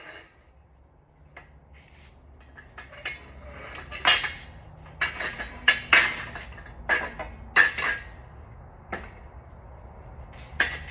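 Metal tools and engine parts clinking and clanking during hand work on an engine teardown, with a string of sharp knocks, the loudest between about four and eight seconds in.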